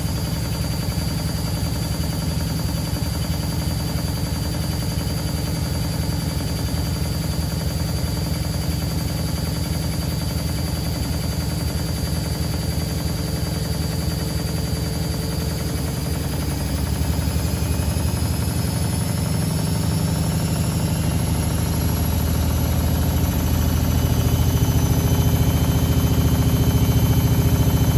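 Privileg Sensation 952 S top-loading washing machine running, a steady mechanical hum and rumble from its drive. In the second half it grows louder in two steps while a faint high whine slowly climbs in pitch, as the drum picks up speed.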